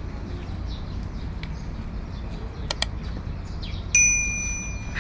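Birds chirping over a steady low outdoor rumble, with two sharp clicks close together a little before a single bright metallic bell ding about four seconds in that rings and fades over about a second.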